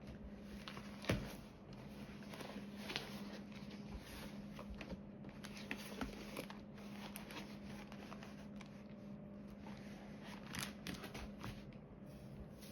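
Small, scattered clicks and taps of diamond-painting drills being picked up and pressed onto the canvas with a drill pen, with one louder knock about a second in, over a low steady hum.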